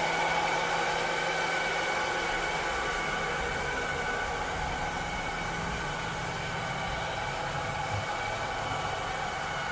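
A cleaning robot's motor running steadily: an even rushing whir with a couple of steady high whining tones over a low hum.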